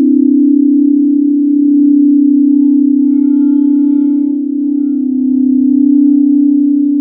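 Singing bowl ringing in a sustained low tone that wavers with a fast beating. It swells slowly and dips briefly about four and a half seconds in.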